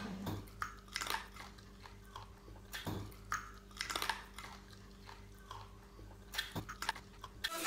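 A person biting and chewing fried chicken close to the microphone, with short wet clicks and smacks at irregular intervals. A faint steady hum runs underneath.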